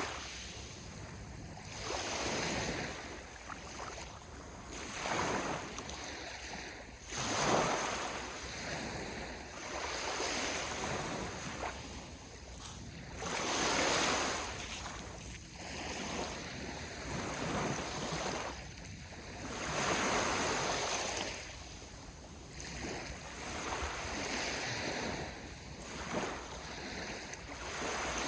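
Ocean waves breaking and washing on the shore, a swell of surf every two to three seconds, with a sharper break about seven seconds in.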